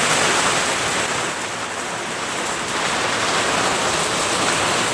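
Heavy rain pouring steadily in a thunderstorm, an even hiss with no let-up.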